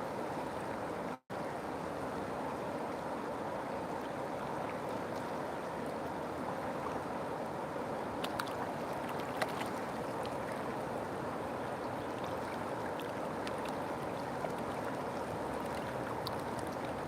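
River water flowing steadily, an even rushing sound, with a few faint ticks about halfway through. The sound cuts out for an instant about a second in.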